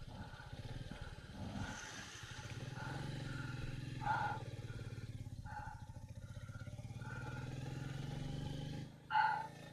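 Royal Enfield Meteor 350's single-cylinder engine running as the motorcycle rides off, its steady beat growing louder about two and a half seconds in and easing off shortly before the end. Short high blips repeat over the engine, and a brief louder sound comes near the end.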